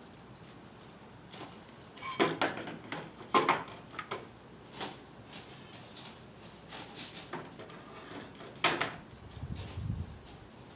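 Irregular knocks and clatter of hand tools being set into a PVC-pipe tool holder, the tools knocking against the plastic pipe, with a dull thud near the end.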